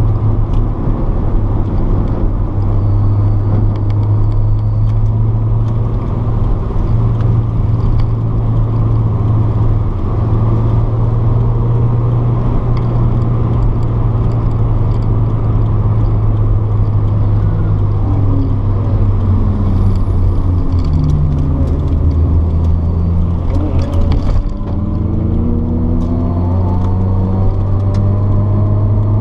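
Car engine and road noise heard from inside the cabin at speed on a race track: a loud, steady drone. About two-thirds of the way in the engine note falls as the car slows, dips briefly at a gear change, then climbs steadily as the car accelerates hard again.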